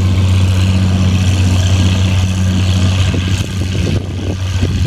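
Antique tractor engine running steadily at a constant pitch, easing off slightly a little past halfway.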